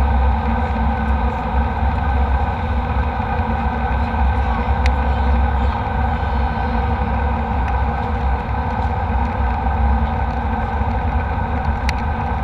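Jet airliner cabin noise: a steady low rumble and even engine drone that does not change, with a few faint clicks.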